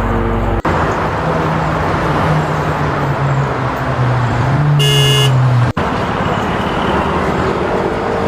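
Vehicle sound effects: a motor running over a steady noisy rush, with one short, high-pitched horn beep about five seconds in. The sound changes abruptly twice, about half a second in and just before six seconds.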